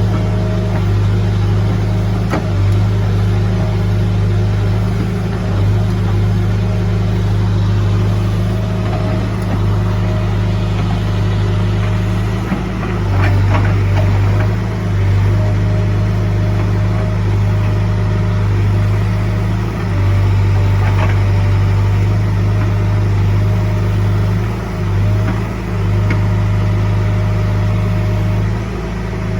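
Heavy-equipment diesel engine running steadily at a constant speed, with a few brief dips in level and some faint knocks.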